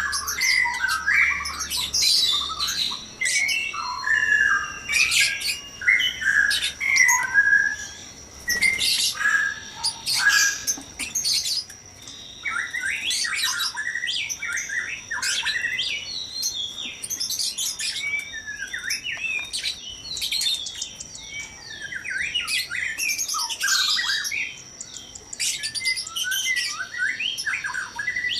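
Several white-rumped shamas calling and singing together in a noisy, overlapping stream of short whistled sweeps, squawks and chatter, over a steady high-pitched whine.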